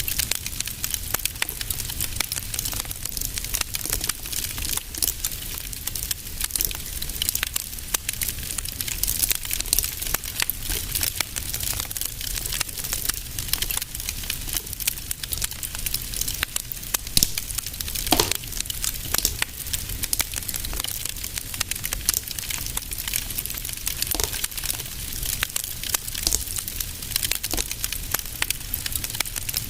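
Wood fire burning in a fireplace, with dense, constant crackling and popping over a low rumble.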